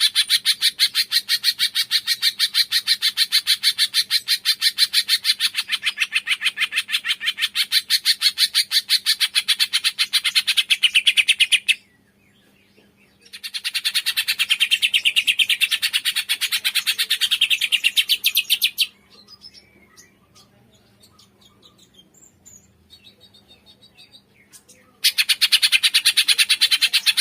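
Cungkok songbird giving a fast, steady run of sharp repeated chirps, in three long bouts: a short pause about 12 s in and a longer pause of several seconds about 19 s in, with only faint scattered notes before the chirping resumes near the end.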